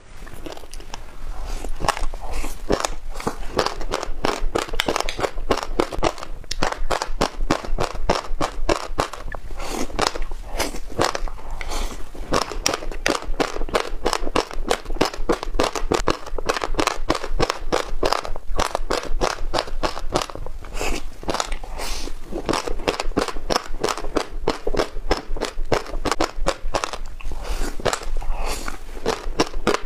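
Passionfruit seeds mixed with yogurt being chewed, close to the microphone: a dense, continuous run of rapid crisp crunches.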